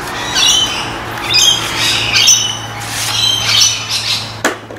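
Birds squawking: a string of short, harsh calls, about one to two a second, over a low steady hum, with a sharp click near the end.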